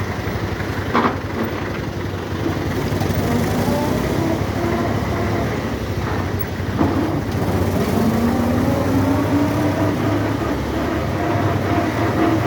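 1971 Belarus tractor's diesel engine running steadily, with a sharp click about a second in and a whining tone that rises and falls from about three seconds in.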